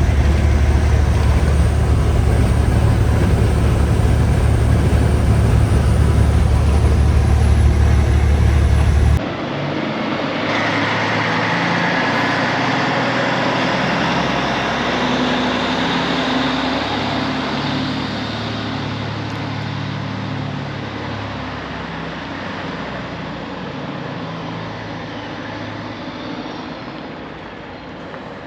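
Vehicle noise: a loud, steady low drone for about nine seconds, then an abrupt change to a lighter, hissier road or traffic noise that slowly fades away.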